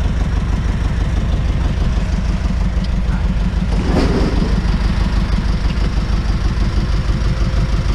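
Big truck's engine running steadily, a continuous low pulsing rumble, with a brief louder noise about halfway through.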